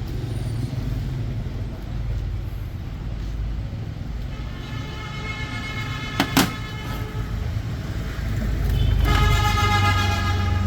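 Steady low traffic or engine rumble. A vehicle horn sounds twice, each time for a couple of seconds, the second blast louder. Two sharp knocks come close together between the blasts.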